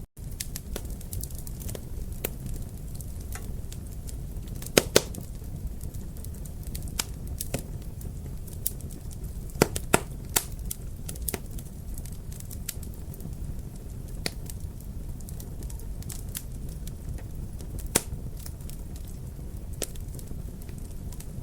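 Wood fire crackling in a fireplace: a steady low rumble with irregular sharp pops, the loudest a pair about five seconds in, another pair about ten seconds in, and a single pop near the end.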